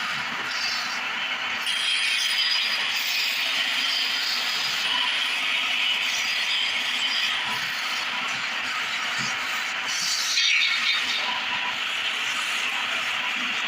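Wood lathe running while a turning tool cuts the spinning wood, a steady scraping noise, with a brief louder cut about ten and a half seconds in.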